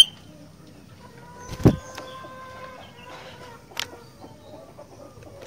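A short, sharp bird chirp. About a second and a half later comes a loud thump, followed by a steady ringing tone, and a sharp click near the end.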